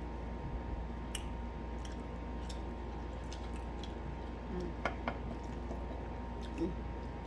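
Someone chewing food, with scattered small wet mouth clicks, the sharpest two coming close together about five seconds in, over a steady low hum.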